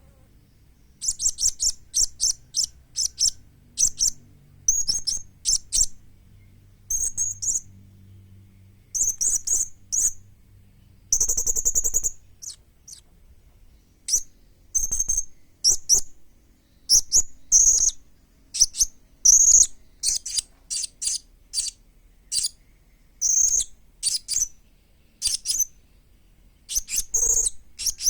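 Young blue-crowned hanging parrot (serindit) calling: clusters of short, very high-pitched chirps in quick runs, separated by brief pauses.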